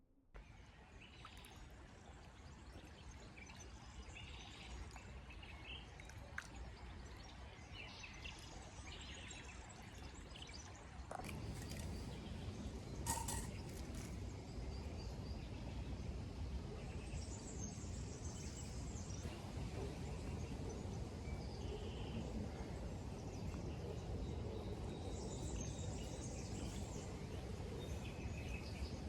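Birds chirping now and then over a steady low rumble of outdoor noise, which gets louder about eleven seconds in; a single sharp click near the middle.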